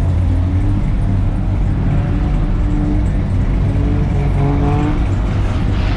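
A car engine running loud and steady, with short revs that rise in pitch.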